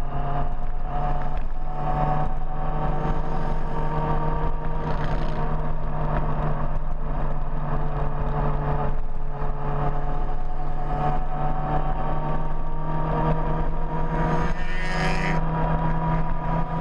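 Big motorcycle engine running steadily under way, its pitch slowly rising and falling with engine speed.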